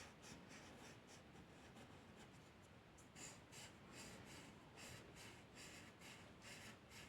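Faint scratching of a drawing tool on paper: repeated short strokes, about two or three a second, growing stronger about halfway through.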